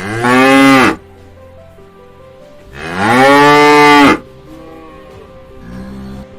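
Cow mooing twice: a call of about a second, then a longer one of about a second and a half, each rising and then falling in pitch.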